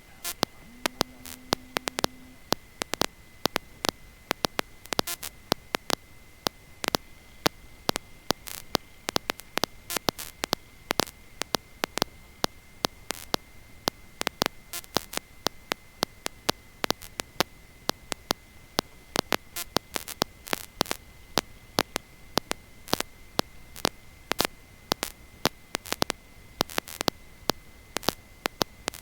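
Crackling static on the biplane's cockpit intercom audio: irregular sharp clicks and pops several times a second over a steady high-pitched whine, with a short low hum about a second in.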